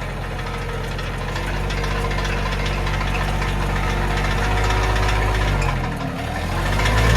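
Mahindra 1626 compact tractor's diesel engine running at PTO speed, with the PTO engaged to spin the post hole digger. The engine note briefly sags in pitch about six seconds in, then comes back up louder.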